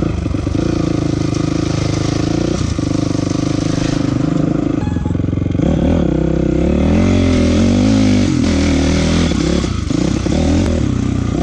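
Honda CRF450 dirt bike's single-cylinder four-stroke engine running while riding. Its note holds steady for the first few seconds, then from about halfway the revs rise and fall repeatedly as the throttle is worked, before settling near the end.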